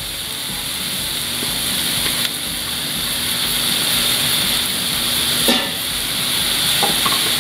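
Diced vegetables and cooked white rice sizzling in hot oil in a skillet as the rice is tipped in and stirred with a spatula, a steady hiss. A single short clatter about five and a half seconds in.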